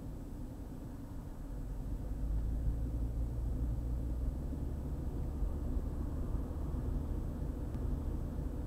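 Car driving along a highway: a steady low rumble of engine and tyre noise, growing louder about two seconds in.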